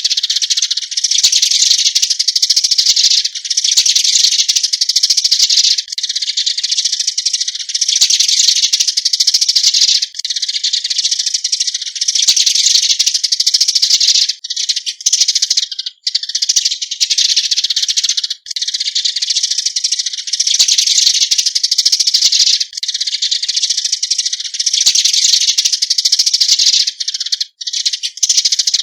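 Eurasian tree sparrows chirping in a dense, unbroken chatter of overlapping high calls, the flock-gathering call.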